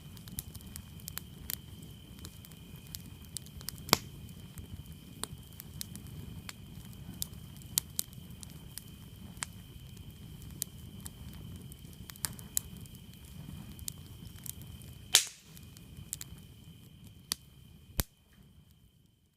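Wood campfire crackling, with many sharp pops; the loudest come about 4 and 15 seconds in. Crickets chirp steadily behind it, and everything fades out near the end.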